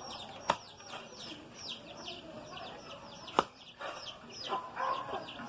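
Birds chirping, many short high falling calls repeating throughout, with two sharp knocks, about half a second in and about three and a half seconds in.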